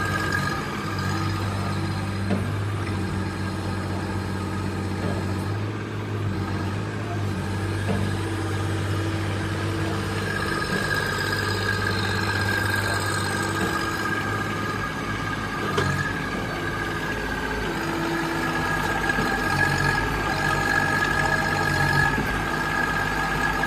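Mini crawler excavator's engine running steadily, its note shifting now and then, with a steady high whine over it. A single sharp knock sounds about 16 seconds in.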